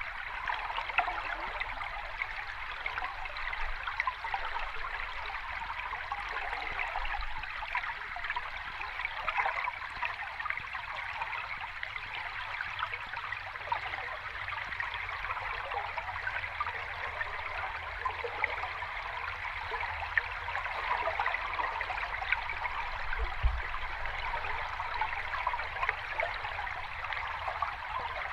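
Sea water washing steadily, a continuous rush with many small crackles and no distinct wave breaks.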